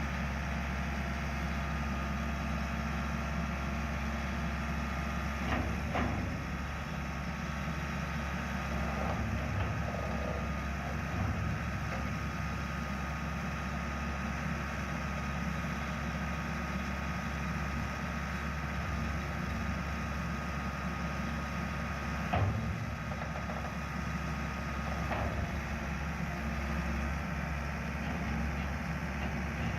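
Bobcat 980 skid steer loader's four-cylinder turbo diesel engine running steadily, with a few brief knocks along the way.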